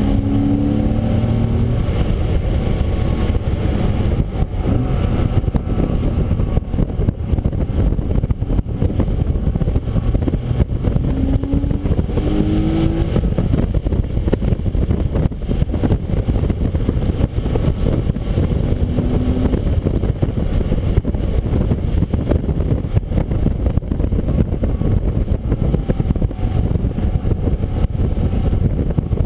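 Car engine running hard at track pace under a dense, steady rush of road and wind noise. The engine note climbs briefly near the start, again about eleven seconds in, and once more near twenty seconds.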